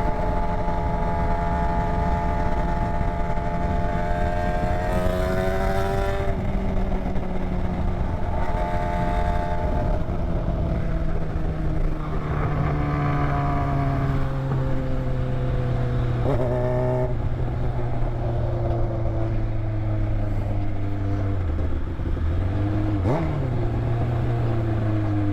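Motorcycle engine running on the move: its note climbs until about six seconds in, steps at a gear change, then falls slowly as the bike slows, with wind noise throughout. A short sharp knock comes near the end, after which the engine note rises again.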